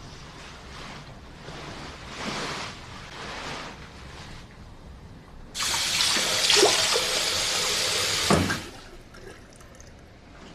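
Water running for about three seconds, starting and stopping abruptly, after a few soft rustling swells.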